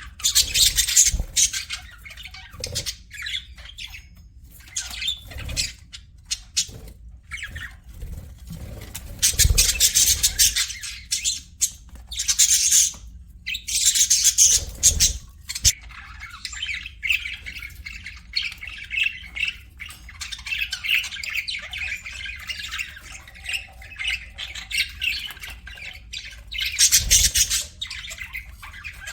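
Pet budgerigars chattering and warbling, with loud harsh squawking bursts several times among steady quieter chirping.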